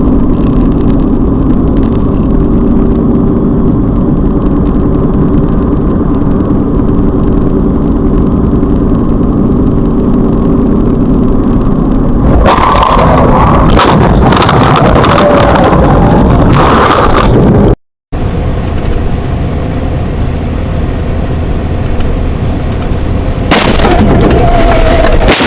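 A car driving with steady engine and road noise and a low hum. About twelve seconds in comes a car crash: several seconds of loud crunching impacts and breaking. After a brief cut to silence the steady road noise returns, with another loud, noisy burst near the end.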